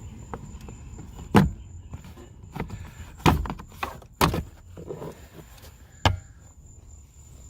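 Plastic under-dash panel below a 2010 Honda Fit's glove box being unclipped and pulled down: about five sharp clicks and knocks as its clips let go and the panel is handled, the loudest about a second and a half in.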